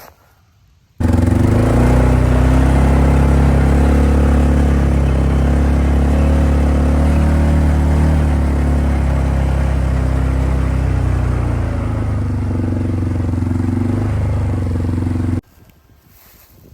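Off-road utility vehicle's engine running steadily at a constant speed while driving, starting abruptly about a second in and cutting off abruptly near the end.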